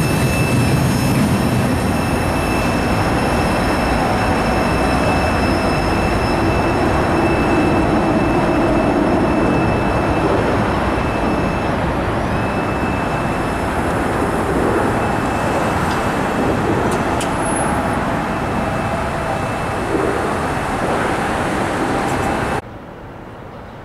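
Freight train cars rolling past and away over a road crossing with a steady rumble, while the crossing signal bell rings on and on at a high pitch. The bell breaks off briefly about halfway through as the gates go up. Near the end everything cuts off abruptly.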